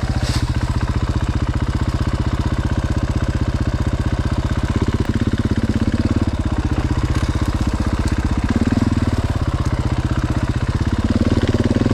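Dirt bike engine running at low revs, with a steady chug of firing pulses and brief rises in engine note when the throttle is opened a little, about five seconds in, around two-thirds through, and near the end.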